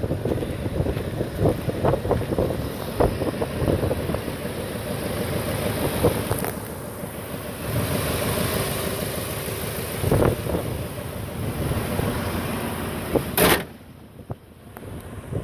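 Ford F-350 Super Duty pickup engine idling, with wind rumbling on the microphone and a few sharp knocks.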